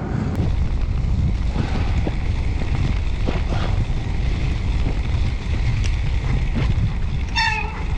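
Wind buffeting the microphone with road and tyre rumble while a road bike is towed at speed behind a car on a snowy road. Near the end a brief high-pitched squeal cuts through.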